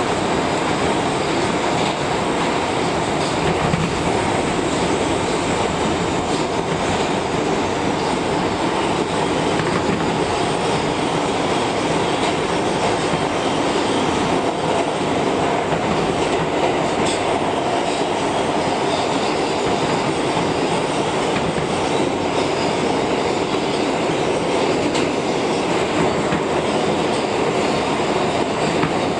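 R160B Alstom subway train running steadily on the rails, as heard from inside the car: a continuous loud rumble of wheels on track.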